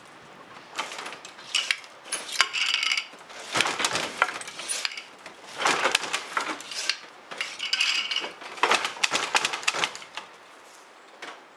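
Kitchenware clattering: dishes and utensils clinking and scraping in several short bouts, some strikes leaving a brief ring.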